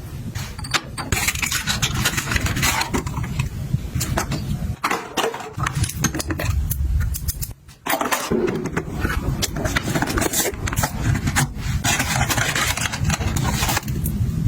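Objects being handled: a busy run of clicks, taps and scraping over a steady low rumble, with a brief pause about halfway through.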